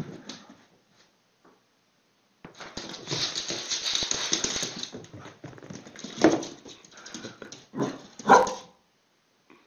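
A dog barking a few times near the end, after a stretch of hissing, rustling noise.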